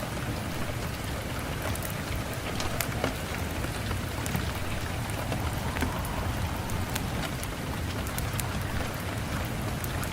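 Steady rain, an even hiss dotted with scattered sharp ticks, over a constant low rumble.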